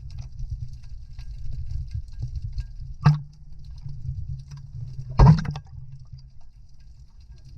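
A low rumbling noise throughout, with two loud sudden knocks or splashes: a short one about three seconds in and a longer one about two seconds later.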